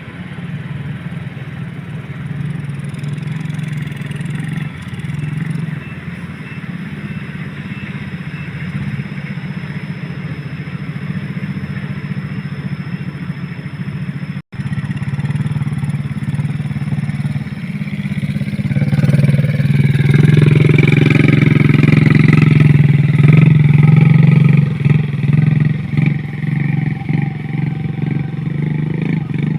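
Motorcycle engine running steadily, cut by a brief gap about halfway through, then growing louder for several seconds in the last third as it works harder.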